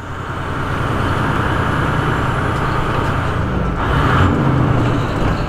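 Semi truck's diesel engine running steadily with a broad rushing noise over it.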